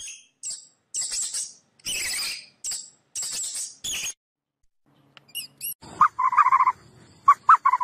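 Animal calls: a run of short, high-pitched squeaky chirps, then after a brief pause a quicker series of short, lower pulsed calls.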